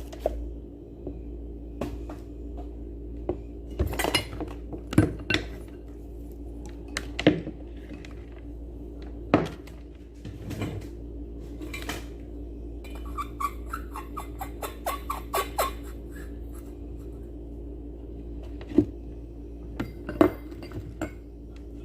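Metal parts of a blender motor clinking, knocking and rattling as they are handled, with a quick run of small rattles partway through, over a steady low hum.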